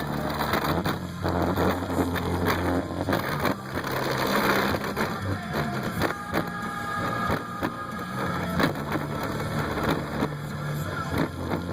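Music played loud through a truck's car-audio system, with deep bass notes that step from pitch to pitch under a run of sharp beats.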